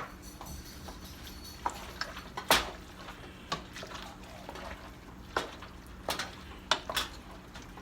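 Utensil working through pasta in broth in a cooking pot: scattered clinks and scrapes against the pot, with wet liquid sounds between them.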